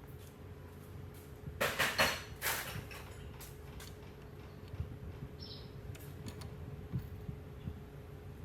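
A short cluster of knocks and clattering about two seconds in, then scattered light clicks, over a steady low hum: parts being handled in a workshop.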